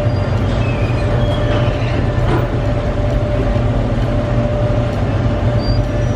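Steady, loud mechanical rumble with a constant mid-pitched hum and no break.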